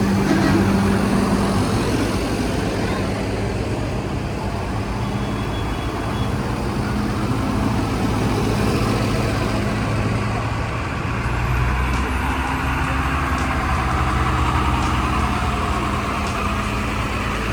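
Tractor and farm-vehicle engines running as they drive past in a slow procession, a steady engine drone with a deeper engine coming in about two-thirds of the way through.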